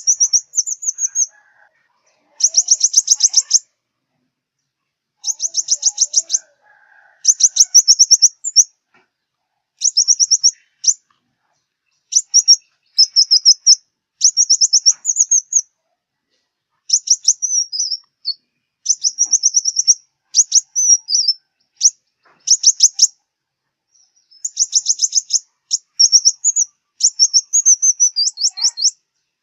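Sunbird song: high, rapid trilled phrases, each lasting up to about a second and a half, repeated again and again with short pauses between them.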